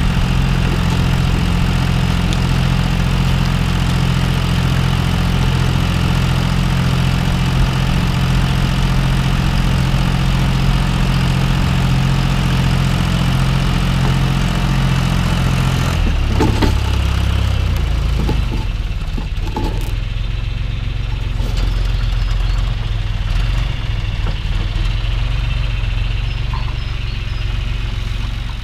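Tractor diesel engine running steadily, as when pulling a plough. About halfway through the engine speed drops and stays lower, with a few clanks just after.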